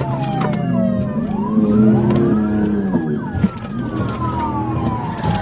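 Police car siren wailing in slow falling and rising sweeps, with a car engine running underneath.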